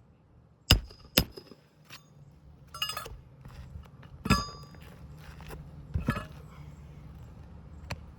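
Roofing nails being driven into a replacement asphalt shingle: a handful of sharp metallic strikes at uneven intervals, some with a short ring, and a cluster of small clicks about three seconds in. A low steady hum runs under it from about a second and a half in.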